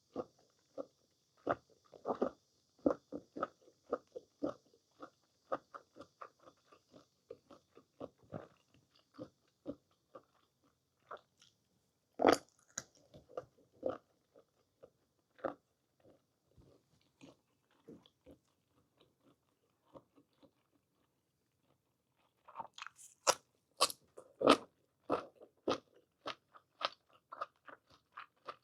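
Close-miked chewing and biting of parboiled whole squid and blanched green onions: a steady run of wet, chewy clicks, a few a second, with louder bites about twelve seconds in and again near the end.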